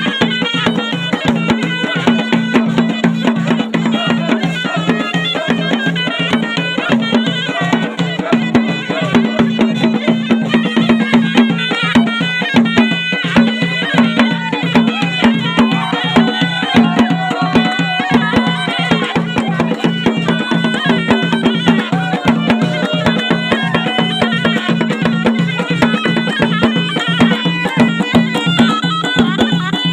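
Ghaita, the Moroccan double-reed shawm, playing a reedy folk melody over a quick, steady drumbeat, with a held low drone beneath.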